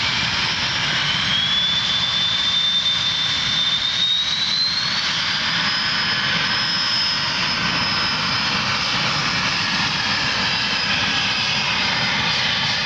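Jet aircraft engines running at takeoff power: a steady roar with a high whine that rises in pitch in two steps during the first five seconds, then holds and fades away in the second half.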